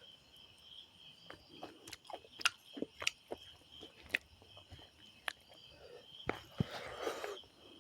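A person chewing and eating a meal of rice and chicken curry, with scattered wet mouth clicks and smacks and a longer, noisier stretch of chewing near the end. A steady high insect chirping runs underneath.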